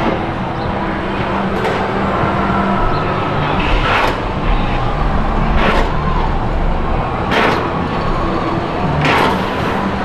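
Chance Rides Hyper GT-X roller coaster train running on its steel track: a steady rumble with sharp rushing swells about every two seconds.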